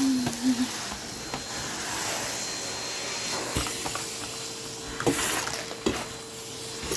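Vacuum cleaner running with a steady hiss, with a few knocks and clicks; a steady hum comes in about halfway through.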